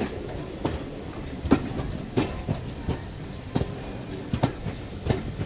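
Train running along the track: a steady rumble with irregular sharp clicks and knocks of the wheels passing over rail joints.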